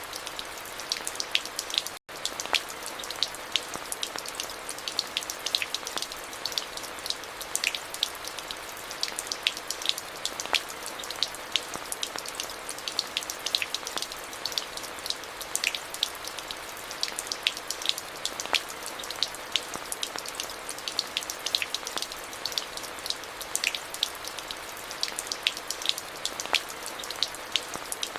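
Steady rain, with many separate drops ticking sharply over an even hiss. The sound drops out for an instant about two seconds in.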